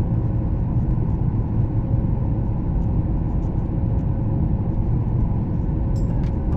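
Cabin noise inside a Boeing 737 MAX 8 on the move: a steady low rumble from its CFM LEAP-1B engines and the airflow, with a faint steady hum.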